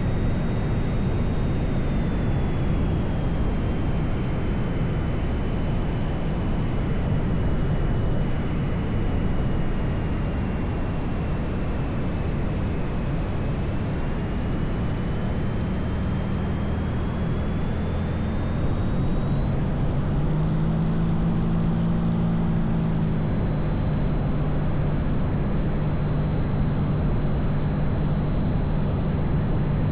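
Cessna 182's piston engine and propeller droning steadily in the cabin on final approach, the pitch dipping and then rising again partway through.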